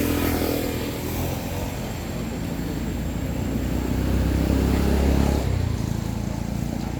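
Motor vehicle engines passing: one fading just after the start, then a louder, lower rumble building about four seconds in and dropping away a second and a half later.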